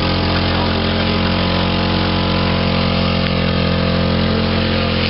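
Subaru car engine running steadily at constant revs, with no change in pitch, while it is deliberately run to destruction and overheating, its coolant boiling off.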